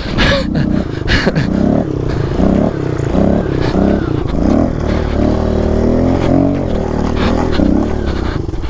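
Small single-cylinder four-stroke pit bike engine revving in repeated bursts about twice a second on a hill climb, then holding a steadier note with a brief rise and fall. A few sharp knocks come in the first second or so.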